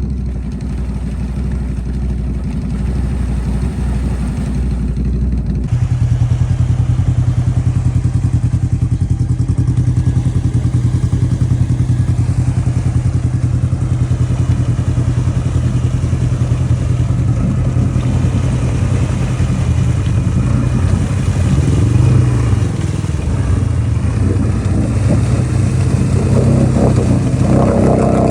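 ATV engine running hard under load as it is worked out of deep mud, its pitch stepping up about six seconds in and then holding steady at high revs.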